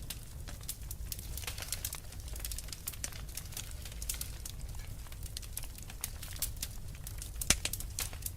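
Wood fire crackling with frequent small sharp pops and one louder pop near the end, over a steady low rumble of storm wind.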